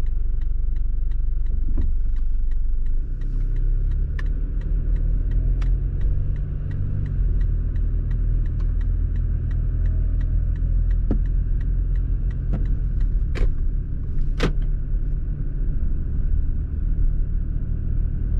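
Toyota Land Cruiser Prado 150 driving, heard as a steady low engine and road rumble inside the cabin, with light ticking a few times a second and a couple of sharper clicks near the end.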